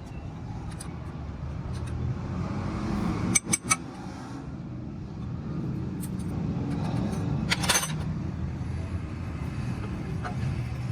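Metal tools and parts clinking sharply, a couple of times about three and a half seconds in and again near eight seconds, over a steady low rumble of vehicle engines.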